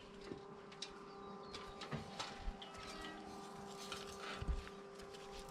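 Faint bird calls and scattered light clicks over a steady hum.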